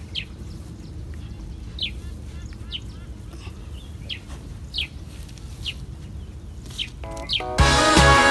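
A bird repeating a short falling chirp about once a second over a steady low rumble. Music comes in loudly near the end.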